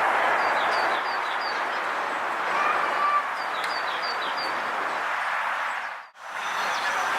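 A small bird chirping in two quick runs of four or five short notes over a steady rushing outdoor noise. The sound drops out briefly about six seconds in.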